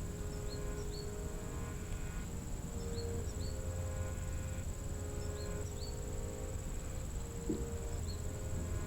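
A steady high-pitched insect trill, cricket-like, over soft background music with sustained chords that change every second or so. Short rising chirps recur every second or two.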